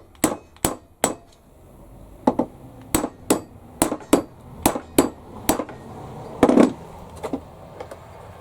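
Hammer striking to set rivets in a leather pouch: a run of sharp taps at about three a second, with a short pause after the first second, one heavier ringing blow about six and a half seconds in, then a few lighter taps.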